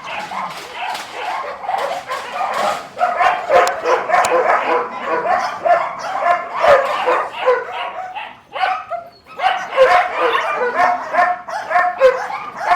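A dog barking and yipping rapidly, over and over, in short high calls several a second, with a brief lull a little over two-thirds of the way through.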